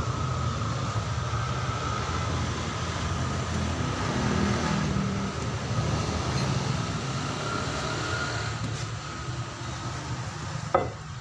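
Steady low rumble of a running motor vehicle, with a faint high whine over it. One short, sharp metallic knock near the end.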